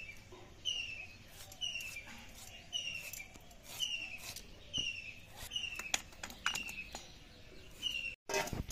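A bird calling over and over, one short falling chirp about every three-quarters of a second, with soft sharp clicks of bottle gourd being sliced on a boti blade.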